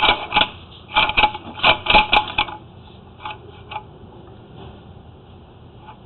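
Sewer inspection camera head clacking and knocking against the inside of a cast iron drain pipe as it is pushed into a T fitting it cannot turn through: a rapid run of sharp clicks over the first two seconds or so, then two more single clicks.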